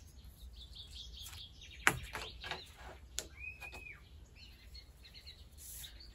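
Wild birds chirping and calling, with one clear whistled note a little past three seconds. A sharp knock about two seconds in is the loudest sound, with a lighter click about a second later.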